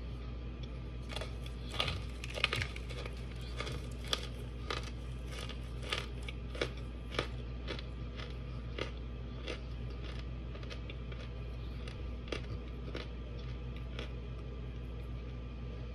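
Crisp crunching as a person bites and chews dry, chalk-like white chunks: a dense run of crunches about a second in, then single crunches every half second or so, thinning out near the end. A steady low hum runs underneath.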